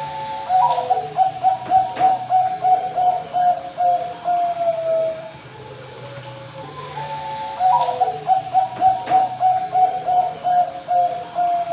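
Bangkok-line zebra dove (perkutut) singing its cooing song twice. Each phrase opens with a longer note, runs into a quick string of rolling coos, and dips slightly in pitch at the end. A steady low hum lies underneath.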